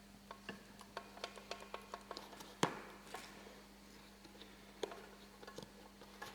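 Scattered light clicks and taps of tools and metal parts being handled during gearbox work, with a sharper knock about two and a half seconds in and another near five seconds, over a faint steady hum.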